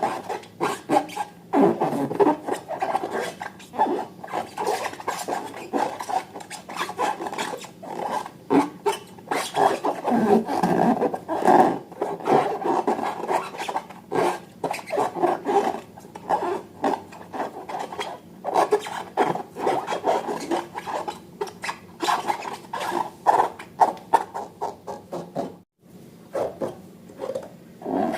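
Slime being squished and worked by hand, a continuous run of irregular sticky clicks, crackles and squelches.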